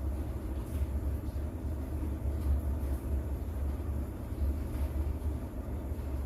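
Steady low rumbling with a faint hiss above it, from a mixed rain-and-distant-thunder sleep soundtrack.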